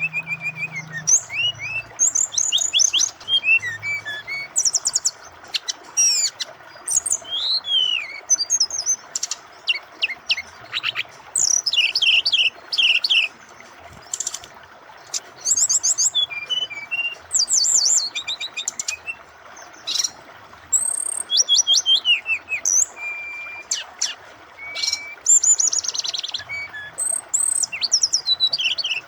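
Brown-chested jungle flycatcher (SRDC) singing in full repertoire: fast, varied bursts of chirps, trills, rising and falling whistles and short chatters. A steady rush of flowing water runs underneath.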